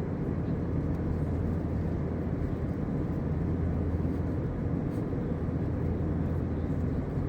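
Steady low rumble of engine and airflow noise inside an Airbus A321's passenger cabin in flight, even and unbroken.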